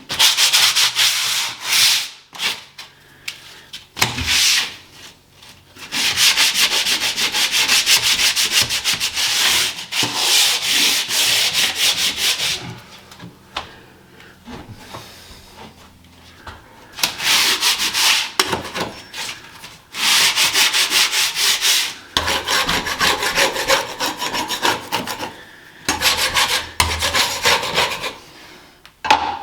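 Sandpaper being rubbed back and forth over a painted ceiling in spells of rapid scratchy strokes with short pauses between them, sanding flaking, blistered paint back to a hard edge.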